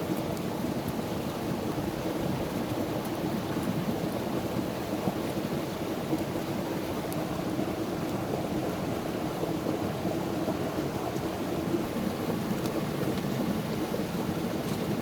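Campfire burning with a steady low rush and a few faint crackles.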